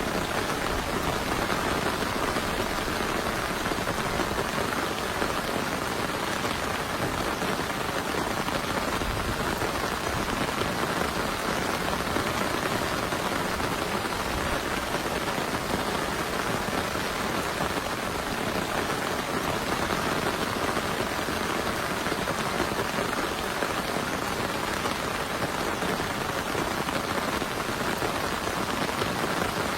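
Heavy rain falling steadily, with no break or change in strength.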